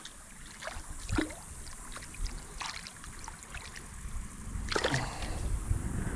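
Creek water sloshing and splashing: a handful of short splashes, the largest about five seconds in, over a low rumble and a faint trickle.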